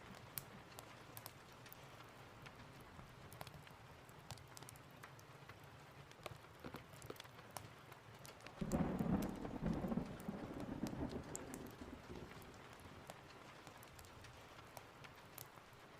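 Steady rain with scattered sharp crackles of a wood fire. About halfway through, a clap of thunder breaks suddenly and rumbles for about three seconds before fading back into the rain.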